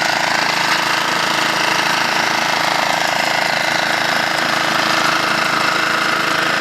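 An engine running steadily at an even speed, with a fast, even pulse.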